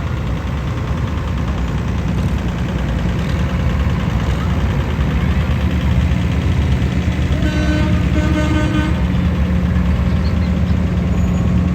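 Tractor engines running steadily as the parade passes, a deep continuous rumble. About eight seconds in a horn sounds briefly over it.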